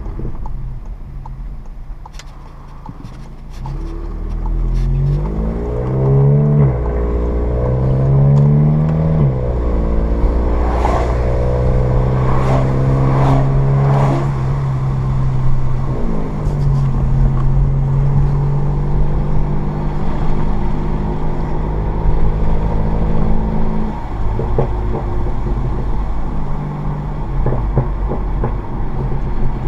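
2015 VW Mk7 GTI's turbocharged 2.0-litre four-cylinder, through a Borla S-Type catback exhaust and APR Stage 2 crackle tune, accelerating hard. The revs climb and drop twice at quick DSG upshifts, then hold steady at cruise. A handful of sharp exhaust pops come a few seconds after the second shift.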